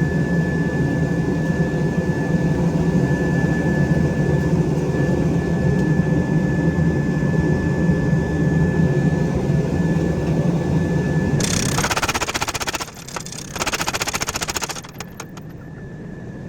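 Forging machinery running with a steady low hum and a thin high whine; about eleven seconds in it gives way to a few seconds of fast, dense rattling, then drops quieter near the end.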